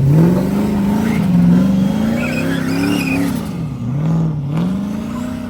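A car engine revving and accelerating, its pitch climbing for about three seconds, dropping sharply near four seconds in, then climbing again.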